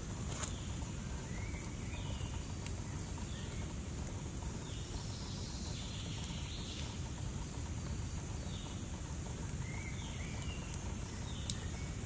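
Birds chirping in short, scattered calls over a steady low rumble, with a couple of sharp clicks, one near the start and one near the end.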